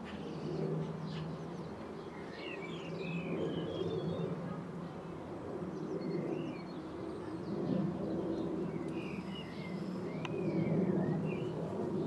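Small songbirds chirping and trilling in short scattered phrases, over a steady low background hum.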